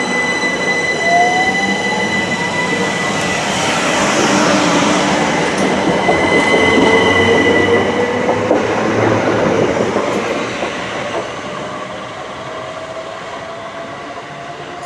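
Class 375 Electrostar electric multiple unit pulling out of the station. Its traction motors whine and slowly rise in pitch over wheel-on-rail rumble. The sound is loudest in the middle and fades as the train draws away.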